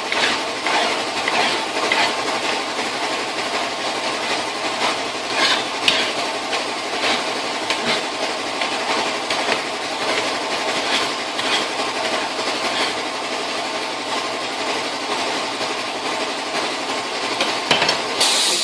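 Handheld power tool running steadily on metal vise parts, with regular scraping strokes, as the jaws and body are cleaned up; it cuts off just before the end.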